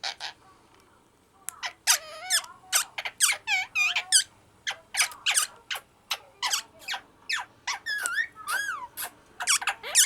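Small pet parrots chirping and squawking in a quick run of short, high calls that slide up and down in pitch. The calls start about a second and a half in, after a brief quiet.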